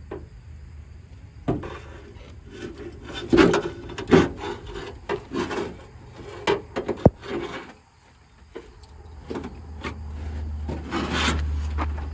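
Homemade pickup tailgate being worked onto its welded hinges: irregular knocks and clunks with stretches of scraping and rubbing as the parts are forced together.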